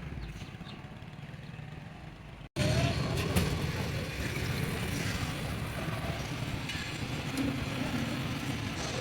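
A motor vehicle engine running steadily with a low rumble. About two and a half seconds in there is an abrupt cut, and after it the engine is louder.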